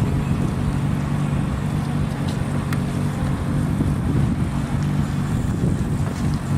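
A car engine running steadily at low revs: an even, low hum with no revving.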